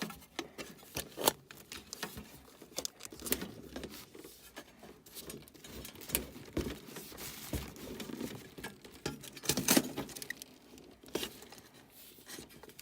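Hand work on an air handler's wiring and parts: irregular clicks, light knocks, rattles and rustling scrapes, with a few sharper clicks, the loudest nearly ten seconds in.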